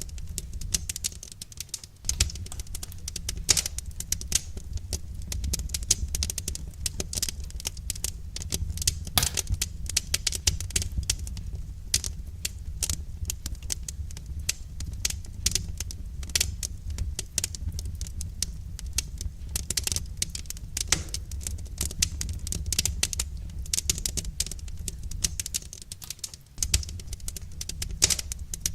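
Wood fire crackling, with many irregular sharp pops and snaps over a steady low rumble. The rumble drops away briefly about two seconds in and again near the end.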